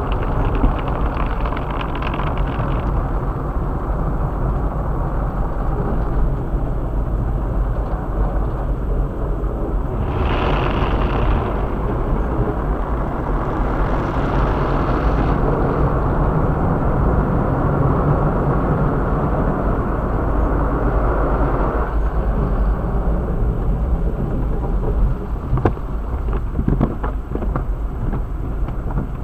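Steady rumble and hiss of a moving 2008 Chevrolet Cobalt heard from inside its cabin. The sound changes about 22 seconds in, and a few sharp clicks come near the end.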